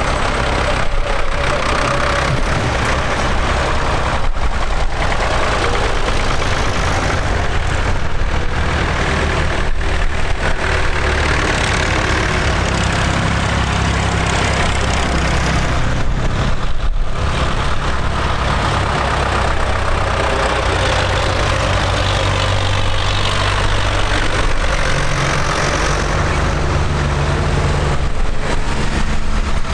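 Tractor engines running steadily, the engine note shifting up and down as the tractors change. There are a few brief breaks in the sound.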